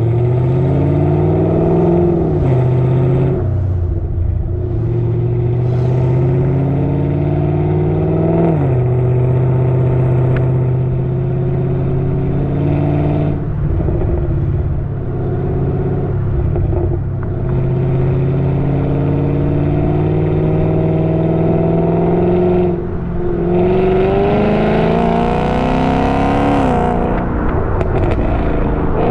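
Chevrolet Camaro's engine through long-tube headers, race catalytic converters and a modified muffler, accelerating through the gears. The note climbs in pitch and drops sharply at each shift, with steadier stretches between, and the exhaust crackles.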